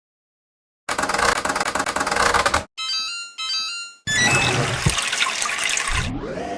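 Washing machine sounds: water rushing, then a short electronic beep melody played twice as a falling run of notes, followed by a short rising run of notes. Near the end a rising motor whine climbs and levels off into a steady hum.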